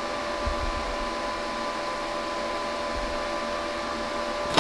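Steady fan-like machine hum with several fixed tones over a hiss, and a couple of faint low bumps.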